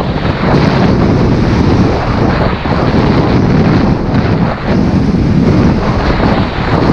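Loud, gusty wind buffeting the microphone during a snowstorm, a rough low rumble that wavers in strength with the gusts.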